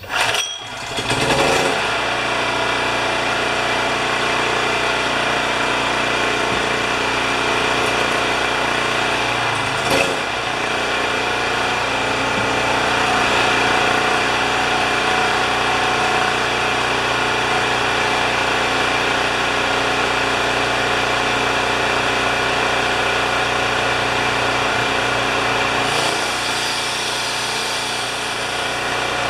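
Champion 3000-watt portable generator's small engine pull-started on a prime of fuel, catching within a couple of seconds and then running steadily. A brief knock about ten seconds in.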